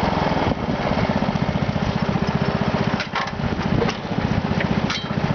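Small single- or twin-cylinder garden tractor engine running with a fast, even pulsing beat, with a few brief clicks about three and five seconds in.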